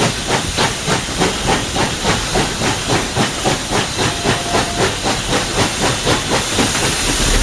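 Tweetsie Railroad No. 12, a narrow-gauge 4-6-0 steam locomotive, working under steam, heard from the cab: its exhaust chuffs evenly at about four beats a second. Near the end the beats stop and a steady rush takes over.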